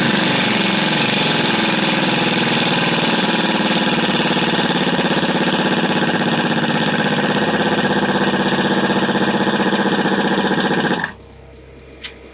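Air impact wrench running hard for about eleven seconds, driving a tailpipe expander to round out and enlarge an exhaust pipe end. It dips slightly in pitch as it takes up the load just after starting, then runs steady and cuts off suddenly.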